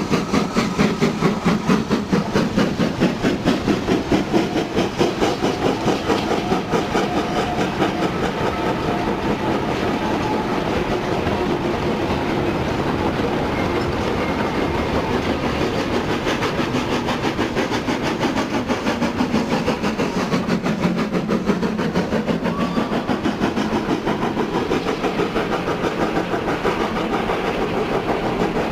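Steam train running, with a fast, regular beat of about four pulses a second that evens out after the first few seconds.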